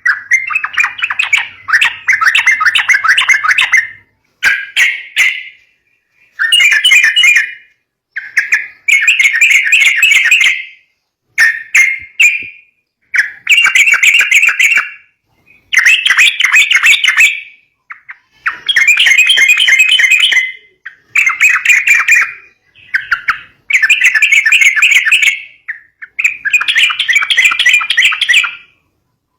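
Yellow-vented bulbul (trucukan) chattering calls: bursts of rapid notes, each one to two seconds long, repeated over and over with short pauses between them. These are lure calls for drawing in young bulbuls.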